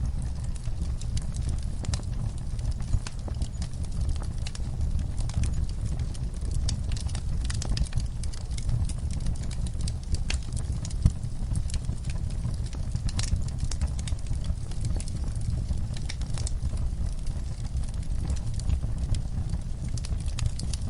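Wood fire burning in a fireplace: scattered crackles and pops over a steady low rumble of the flames, with one sharper pop about halfway through.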